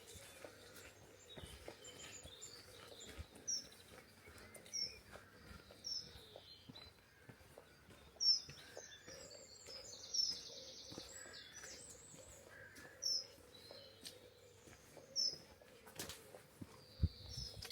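Songbirds calling, one repeating a short high chirp every second or two, with a brief buzzy trill about ten seconds in, over faint outdoor background noise. A low thud comes near the end.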